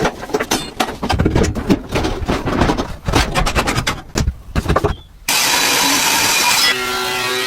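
Rapid, irregular scraping and clattering of hard objects being handled and scrubbed. About five seconds in this gives way to a steady hiss, and music starts near the end.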